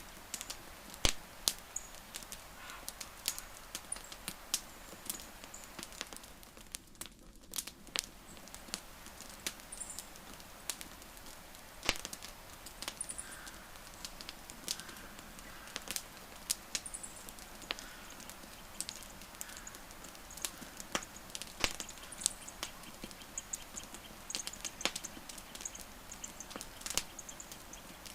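Wood fire crackling, with irregular sharp pops and snaps of varying loudness over a steady low hiss of burning.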